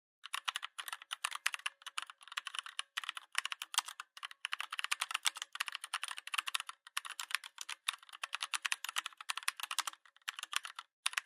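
Keyboard typing: rapid, irregular keystroke clicks in quick runs, with a short pause near the end.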